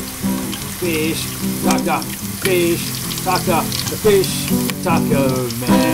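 Music with held low notes and short sliding higher notes, over the steady sizzle of breadcrumbed calamari rings frying in oil in a pan.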